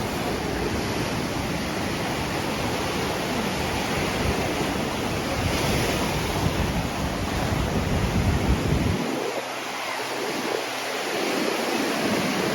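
Surf washing up the beach, with wind buffeting the microphone in a low rumble that drops away about nine seconds in.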